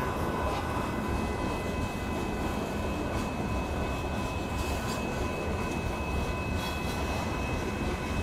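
Loaded gravel hopper cars of a freight train rolling through a grade crossing: a steady rumble of steel wheels on rail with a few faint clanks, and a faint steady high-pitched tone over it.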